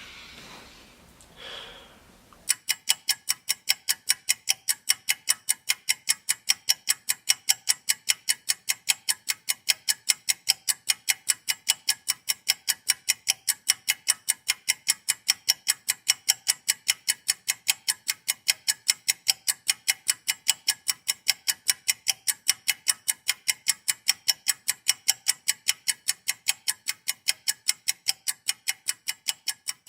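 Clock ticking steadily and rapidly, about four ticks a second, starting about two and a half seconds in.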